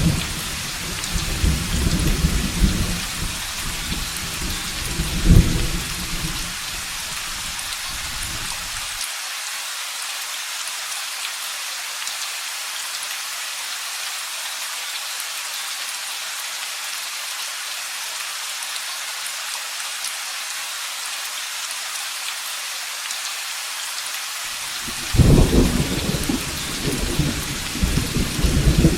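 Steady heavy rain with thunder: a rolling rumble at the start with a sharper clap about five seconds in, which fades out, leaving only the rain hiss; thunder rumbles in again near the end.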